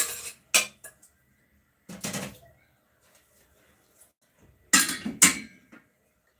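Cookware and utensils clattering in a kitchen: short clanks and scrapes in three bursts, right at the start, about two seconds in, and a loudest pair about five seconds in.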